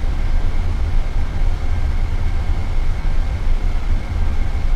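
Steady low rumble in the cockpit of a Boeing 787 Dreamliner taxiing on the ground, with a faint steady high whine over it.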